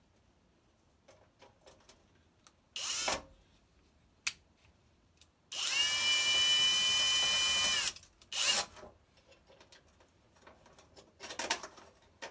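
Power drill driving screws back into an electric kiln: one steady whine lasting a little over two seconds in the middle, with a few short bursts of noise before and after it.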